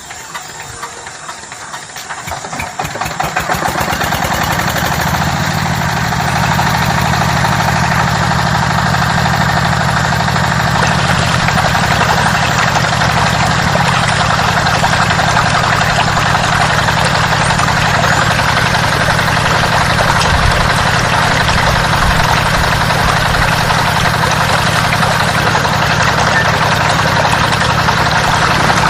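Small engine of a DIY mini water pump catching and picking up speed over the first few seconds, then running steadily.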